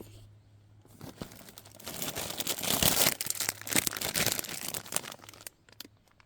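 Dense crinkling rustle of something being handled, full of small crackles, building from about a second in, loudest around the middle and stopping near the end.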